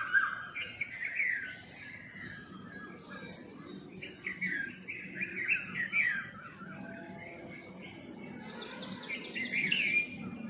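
Small songbirds chirping in quick runs of repeated notes. From about three quarters of the way in, a fast high trill of rapidly repeated notes runs until just before the end.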